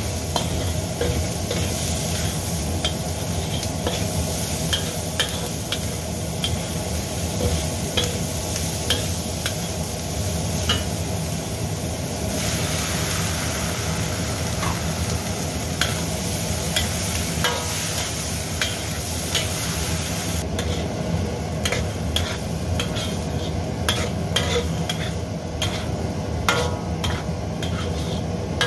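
Diced onion sizzling in a hot black steel wok while a metal spatula stirs it, with frequent clicks and scrapes of the spatula on the pan. The sizzle changes about twelve seconds in, when diced tomatoes join the onion, and its high hiss drops back at about twenty seconds.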